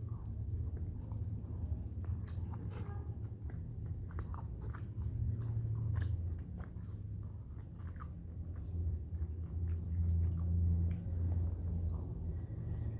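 A person chewing and biting a mouthful of chicken and rice close to the microphone, with many small sharp mouth clicks and crunches over a low rumble that swells and fades.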